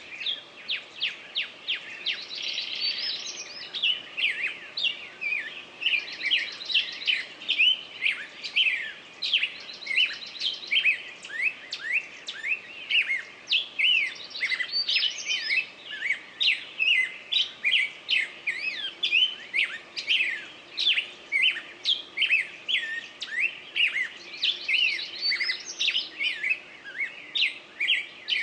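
Birds chirping: a dense, continuous run of short, high, sweeping chirps, several a second, broken by brief rapid trills near the start, at about six seconds and near the end.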